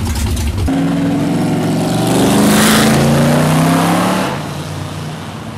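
A deep, pulsing engine rumble breaks off abruptly just under a second in. Then a car engine drives past: its note slides down in pitch, is loudest about halfway through, and fades away.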